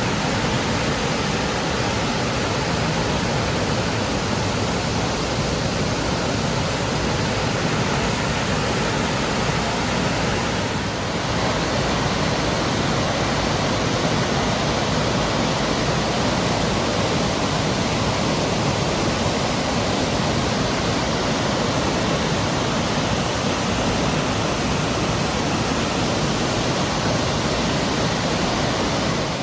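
Waterfall: a loud, steady rush of falling water, dipping briefly about eleven seconds in.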